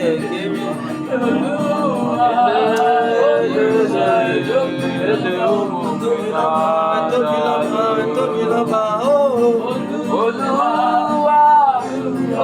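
Live gospel worship music: guitar and keyboard playing under a sung melody that glides up and down.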